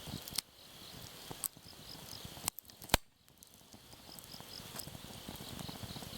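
Crickets chirping in a steady repeating pulse, with a wood campfire crackling: a few sharp pops, the loudest about three seconds in.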